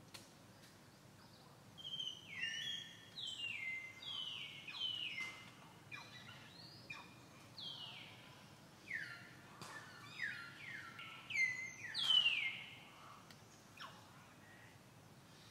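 A bird calling in a long run of whistled notes, each one dropping sharply in pitch and then holding briefly. The calls come about one or two a second, and the loudest is near the end.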